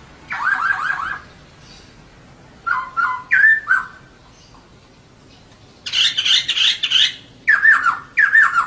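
Female poksay (laughingthrush) calling in four short bursts of rapid chirping notes, with quiet pauses between the bursts.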